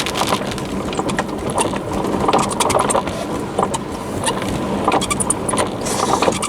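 Steady rain hiss inside a moving car, with a string of sharp, irregular clicks and ticks.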